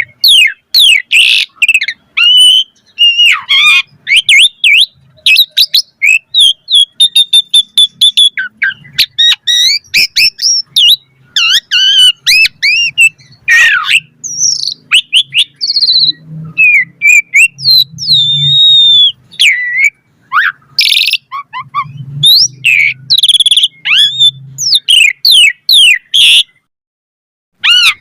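Asian pied starling (jalak suren) singing a loud, fast, varied song of sweeping whistles, chirps and quick trills, broken by short gaps, with a pause of about a second and a half near the end.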